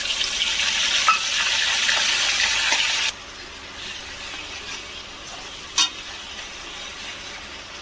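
Ginger, garlic and onion paste sizzling loudly in hot oil with whole spices while it is stirred in the pan. About three seconds in, the sizzling drops abruptly to a quieter steady sizzle, and there is one sharp tap of a utensil against the pan later on.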